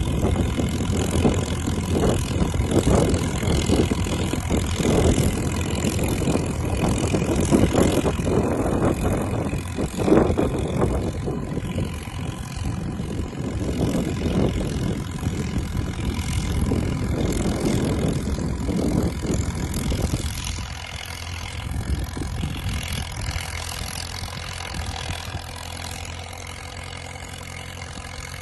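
Caterpillar crawler dozer engine running, with irregular clanks and knocks over it. It grows quieter after about 20 seconds.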